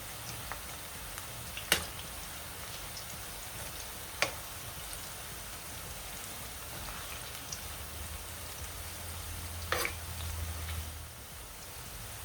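Onion pakodas deep-frying in hot oil: a steady sizzle with a few sharp clicks, three standing out about two, four and ten seconds in.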